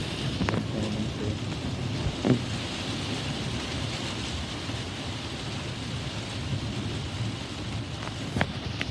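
Steady rain falling in a thunderstorm, with a few sharp taps of drops striking something hard.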